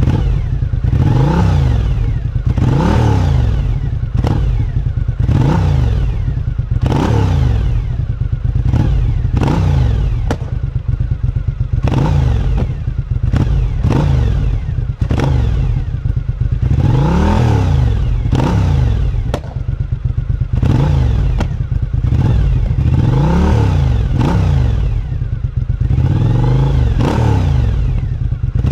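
Suzuki SV1000's 90-degree V-twin on its stock exhaust, revved over and over: each throttle blip rises and falls in pitch, one every one to two and a half seconds, with a few sharp pops from the exhaust.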